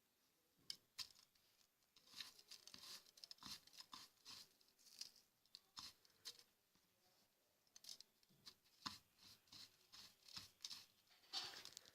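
Bird seed and crushed eggshell being stirred together by hand: faint, irregular rustling with many small clicks of seeds and shell fragments.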